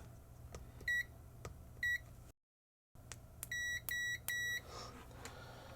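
Digital multimeter in continuity mode beeping as its probes close a circuit: five short, high beeps, two about a second apart, then three in quick succession, with faint clicks of the probe tips between them.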